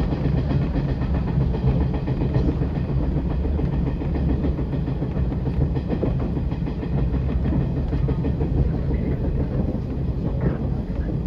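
Electric train running along the track, heard from inside the cab: a steady low rumble of wheels on rail and running gear.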